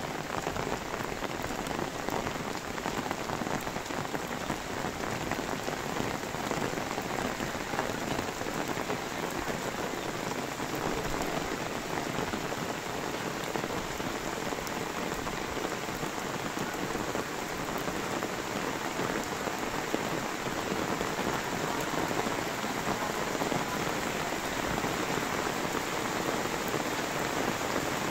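Steady rain with dense pattering of drops on an umbrella, getting a little louder near the end.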